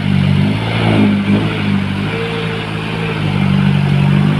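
Dump truck's diesel engine running steadily, its pitch stepping slightly up and down.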